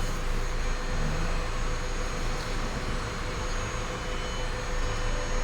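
Steady whooshing machine noise with a faint constant hum, unchanging throughout.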